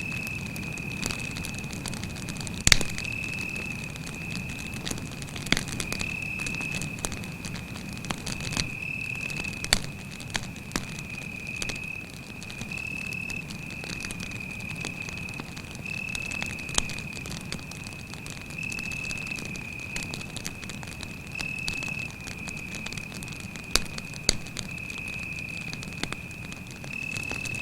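Campfire crackling with scattered sharp pops, the loudest about two and a half seconds in, while a cricket trills continuously at one high pitch.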